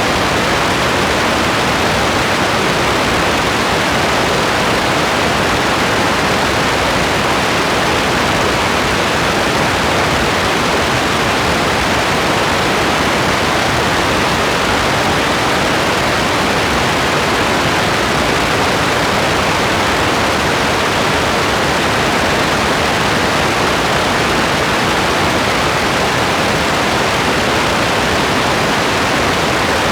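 Rain falling steadily: an even hiss with no separate drops or thunder standing out.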